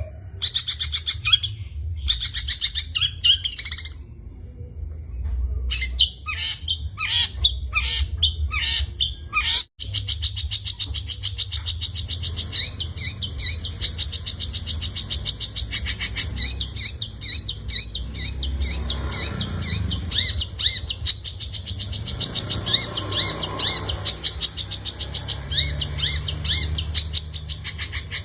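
Long-tailed shrike singing a fast, varied song packed with mimicked calls of other birds, in runs of rapid high notes. There is a short break about four seconds in and a brief dropout about ten seconds in, after which a long unbroken stream of quick repeated chirps follows.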